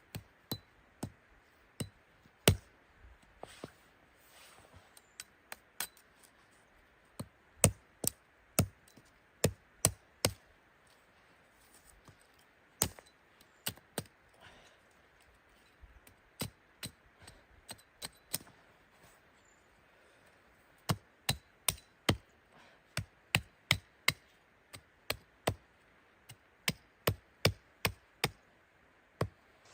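Sharp knocks of a hand tool striking wood, in runs of about two strikes a second with short pauses between the runs.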